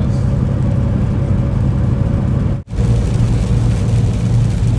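Steady low drone of a semi-truck's engine and road noise heard inside the cab while driving on the highway. The sound cuts out for an instant just past halfway, then carries on with a slightly different hum.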